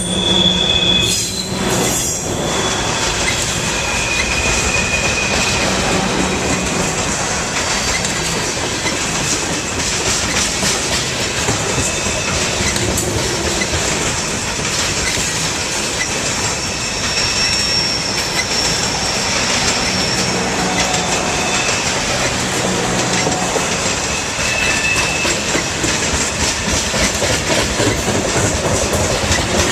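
A train rolling past: a steady rumble of wheels on rail with clicking over the rail joints, and a few brief high-pitched wheel squeals along the way.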